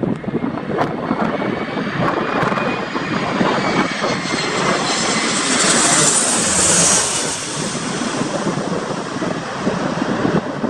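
Jet airliner's engines passing close by, the roar and high whine building to a peak about six to seven seconds in, then easing off. Gusty wind buffets the microphone throughout.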